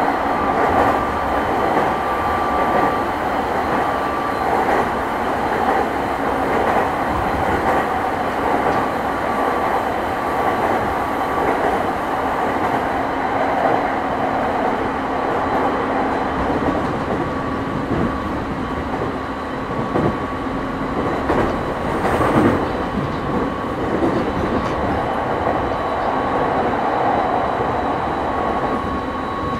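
Running sound inside a JR East 209 series 500-subseries electric commuter train: a steady rumble of wheels on rail with a few thin steady electrical tones, and a few brief knocks from the wheels past the middle.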